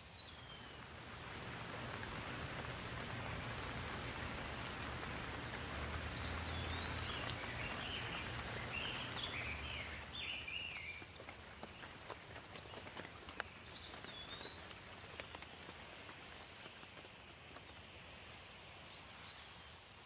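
Steady rain falling, heavier for the first half and then easing, with birds calling over it: short chirps every few seconds and a quick run of chirps in the middle.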